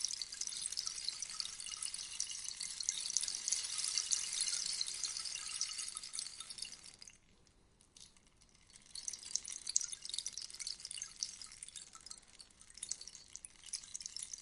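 Rainstick: a dense patter of fine pebbles or seeds falling through the tube, like rain. The patter dies away about seven seconds in, then starts again about a second later.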